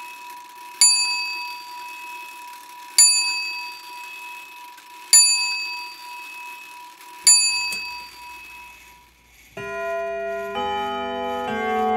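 A small bell struck four times, about two seconds apart, each strike ringing and dying away over a faint steady high tone. About nine and a half seconds in, music of held chords begins, changing chord roughly once a second.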